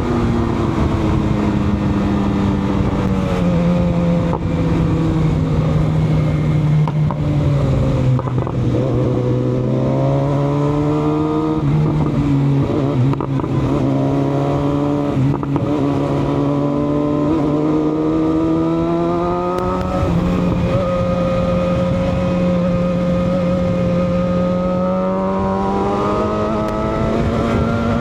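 Sport-touring motorcycle engine running while riding, with wind noise. Its pitch sinks slowly over the first ten seconds, rises again to about twenty seconds in, then holds steady.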